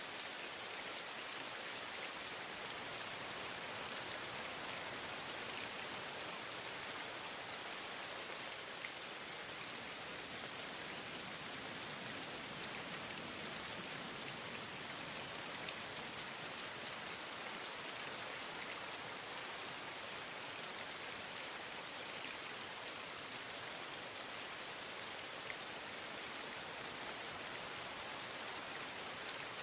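Steady rain falling, with scattered faint ticks of individual drops.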